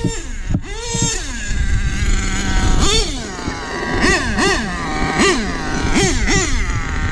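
Small nitro engine of an HPI Savage 25 RC monster truck revving up and down in short throttle bursts, a rising and falling whine repeated about five times in the second half.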